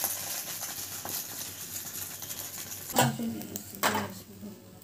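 Egg sizzling as it fries in a pan, a steady hiss, with two sharp clatters about three and four seconds in.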